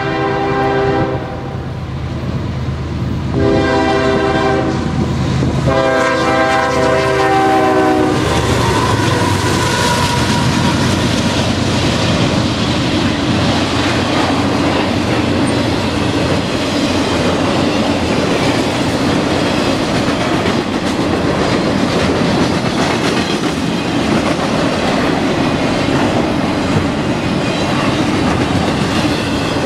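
CSX diesel freight locomotive horn sounding three long blasts, the last ending about eight seconds in. Then the three-locomotive container train passes, its wheels clacking over the rail joints in a steady loud noise.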